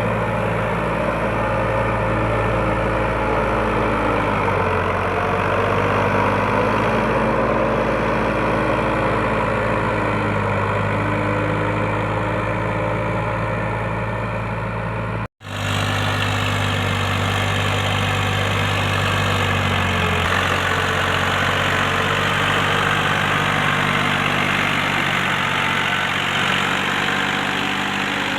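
Eicher 551 tractor's diesel engine running steadily. The sound cuts out for an instant about halfway through, and the engine note shifts slightly a few times.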